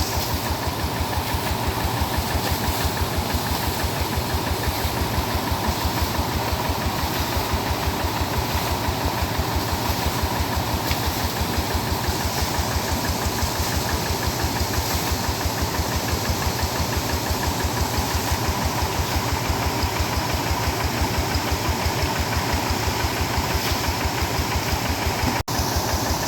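Rice-field tractor's engine running steadily with a rapid, even chugging beat. The sound drops out for an instant near the end.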